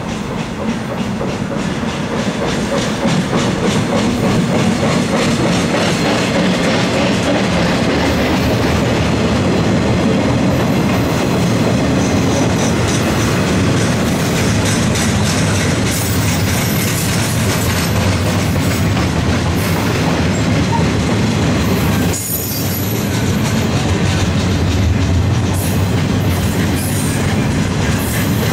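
Freight train of gondola cars rolling past close by: a steady rumble of steel wheels with clickety-clack over the rail joints. Brief high wheel squeals come now and then in the second half.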